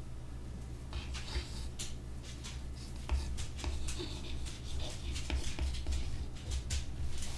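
A drawing tool scratching across paper in short, irregular strokes, over a steady low hum.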